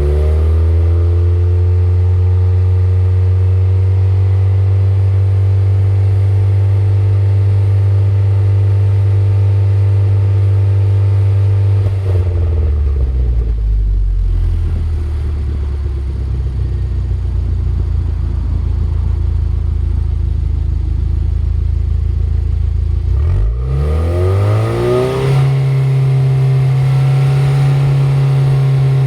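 Car engine and exhaust revved and held at a steady high rpm for about twelve seconds, then dropping back to a low idle. Near the end it is revved up again and held high.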